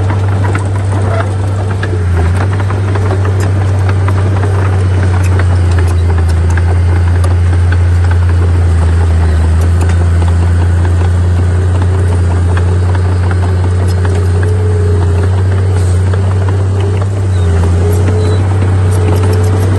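Bulldozer's diesel engine running steadily with a deep constant drone, with scattered light clicks and knocks over it.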